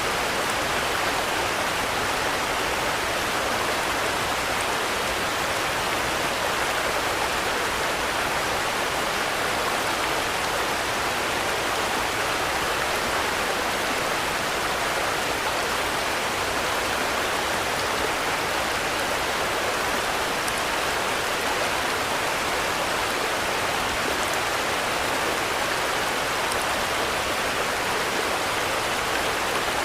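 Steady rain, an even hiss with no changes and no thunder.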